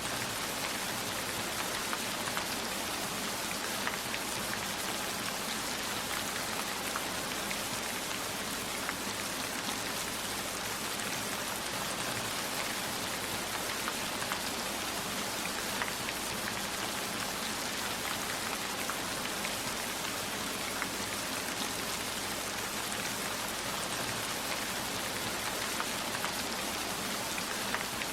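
Steady heavy rainfall, a constant even hiss with scattered single drops ticking through it.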